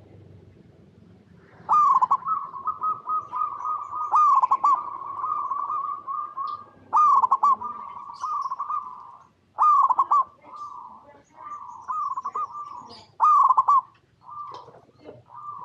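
Zebra dove (perkutut) song: a series of cooing phrases at a steady pitch, each opening with a quick stutter of notes, starting about two seconds in and repeating with short pauses.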